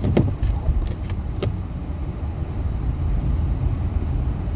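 Steady low engine and road rumble inside a moving truck's cabin, with a few light clicks in the first second and a half.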